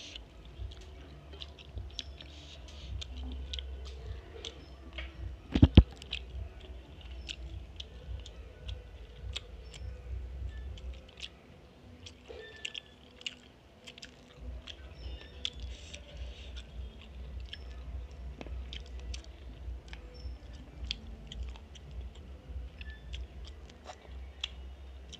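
Close-miked chewing and mouth sounds of someone eating rice and fish curry by hand, with many small wet clicks and smacks, and fingers working the food on a steel plate. One sharp, much louder knock about six seconds in.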